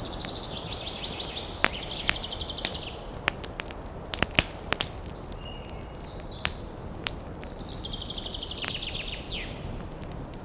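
Campfire crackling with scattered sharp pops over a steady rush of wind in the trees. A bird gives a rapid high trill twice, once at the start and again about eight seconds in, the second one ending in a falling slur.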